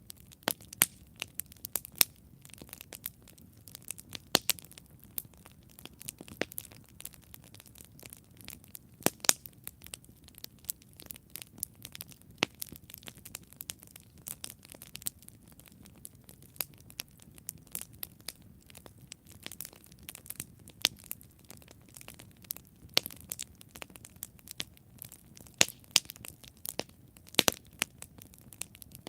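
Wood fire burning: a dense run of irregular sharp crackles and pops over a low, soft rumble of flame.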